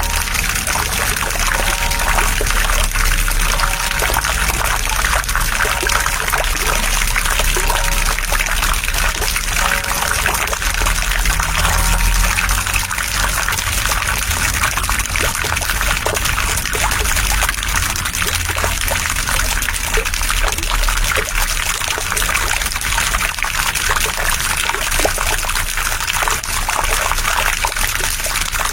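Steady trickling, splashing water noise. For about the first twelve seconds a faint church-bell hum lingers under it and then dies away.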